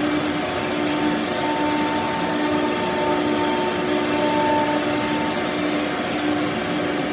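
CNC router running: a steady whine with a few held tones over a continuous machine noise.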